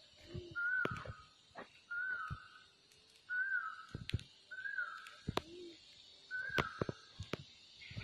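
A bird repeating a short whistled call about once every second and a bit, each note rising quickly and then falling off slightly. Sharp clicks and knocks are scattered among the calls.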